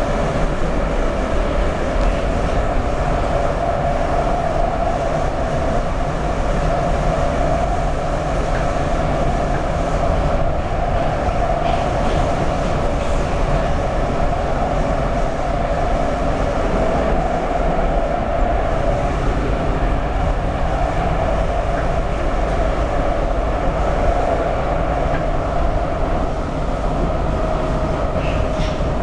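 Budapest Metro line 2 train running between stations in the tunnel: a steady rumble of wheels on rail with a constant hum over it.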